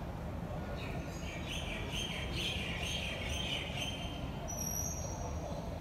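A bird chattering in a quick run of chirps for about three seconds, then a brief high thin whistle near the end, over a steady low background rumble.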